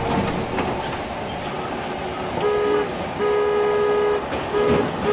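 A horn tooting several times at one steady pitch over continuous background noise. The toots start about halfway through: a short one, a longer one of about a second, then short ones near the end.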